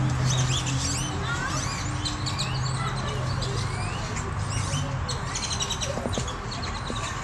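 A flock of birds chirping and calling, with many short, overlapping, quickly rising and falling notes, over a steady low hum.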